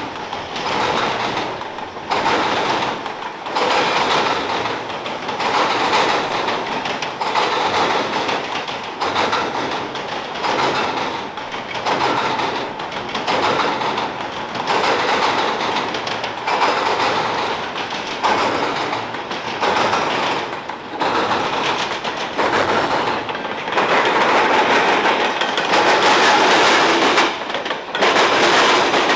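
A CSX freight train rolls past, its wheels clattering in a steady repeating rhythm over the track for the whole stretch.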